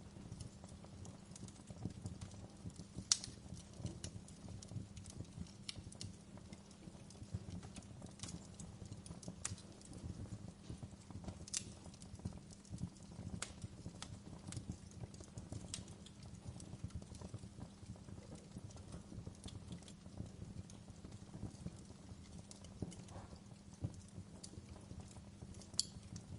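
Wood fire crackling in a fireplace: irregular small pops and snaps over a steady low rumble, with a louder pop about three seconds in, another near the middle and one near the end.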